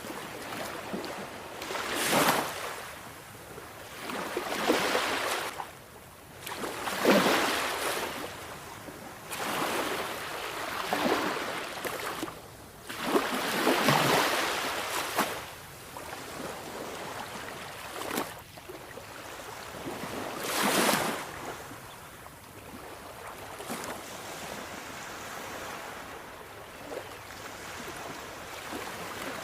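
Sea waves breaking and washing onto the shore, a swell of hiss every two to three seconds, settling to a quieter steady wash for the last several seconds.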